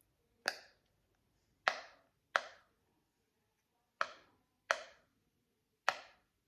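Anti-stress sensory toy being popped close to the microphone: six sharp, separate pops at an uneven pace, each with a short fading tail.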